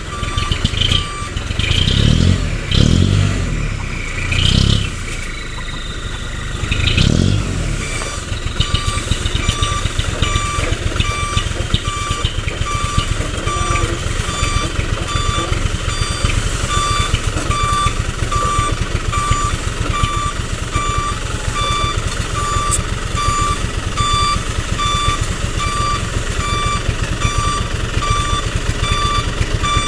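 Hino Dutro truck's reversing alarm beeping steadily, roughly once a second, over its diesel engine running under a heavy sand load; the engine surges several times in the first eight seconds, then settles to a steady run.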